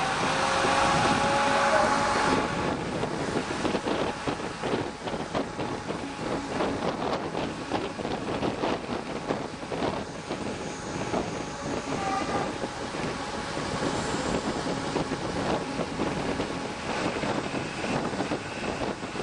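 Train ride heard at an open coach window: a steady rush of wind on the microphone with a fast, irregular clatter and rattle of wheels and coach. In the first two seconds a tone rises slowly in pitch, then fades out.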